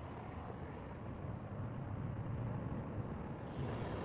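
Steady low background rumble with no speech; a hiss comes in about three and a half seconds in.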